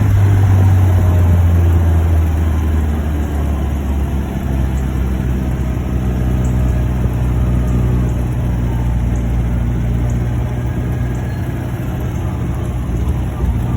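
1949 MG YT's 1250 cc four-cylinder engine running steadily while the car is driven, heard from inside the car. It is a little louder for the first couple of seconds, then eases slightly.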